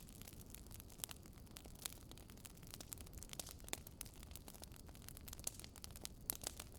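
Campfire crackling: irregular sharp pops and snaps from burning wood over a low, steady rush of flames, with a few louder pops scattered through.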